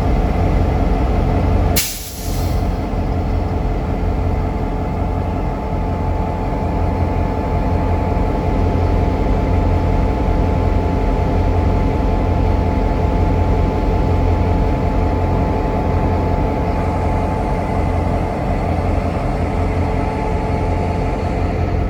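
CC 202 diesel locomotive's engine running steadily with a deep drone, and about two seconds in a short, sharp hiss of air from the train's air brakes.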